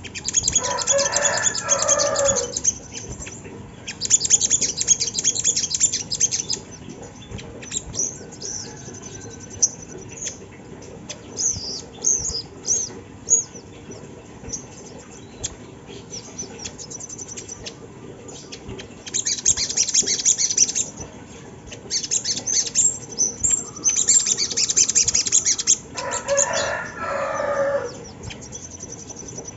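Crimson sunbird (sogon) song: bursts of very high, rapid trilling chirps a few seconds long, broken by short gaps with scattered single notes. Twice, at the start and near the end, a lower call that falls in pitch sounds beneath the trills.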